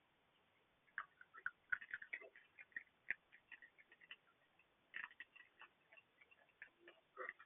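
Irregular light clicks, taps and scratches in quick clusters, starting about a second in: raccoons' claws on the boat as the mother and kits move about.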